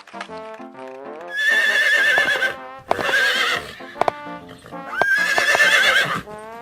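A horse neighing three times, each a loud, quavering high-pitched whinny, over background music.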